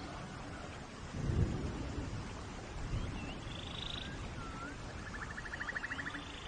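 Steady rain with low rumbles of distant thunder, one about a second and a half in and a smaller one around three seconds. Birds call over it in short chirps, and one gives a rapid buzzy trill near the end.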